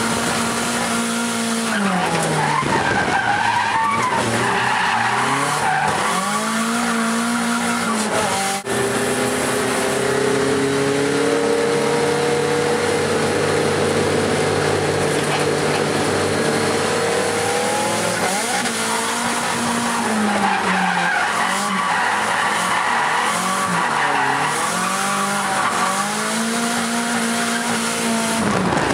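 Nissan SR20DET turbocharged four-cylinder in a Toyota AE86 Trueno, heard from inside the cabin, revving up and down over and over through drifts, with tyres skidding. A brief dropout about a third of the way in is followed by a longer stretch where the engine pitch climbs slowly before the quick rise-and-fall revving resumes.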